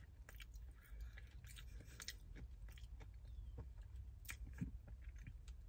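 A person chewing crunchy breaded fried pickles close to the microphone: scattered crisp crunches and mouth sounds over a low steady hum.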